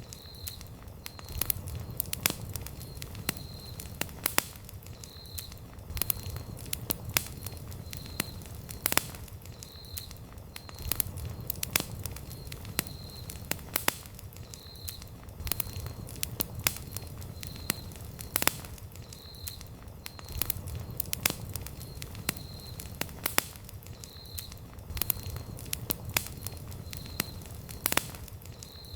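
Wood campfire burning, with sharp, irregular crackles and pops over the low steady rumble of the flames.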